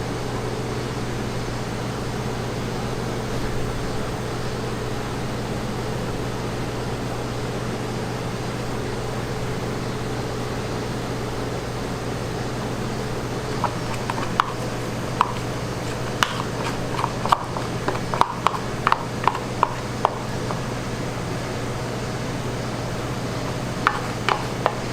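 A steady low hum, and from about halfway through a run of light clicks and taps of kitchen work, about a dozen over six seconds, with two more near the end.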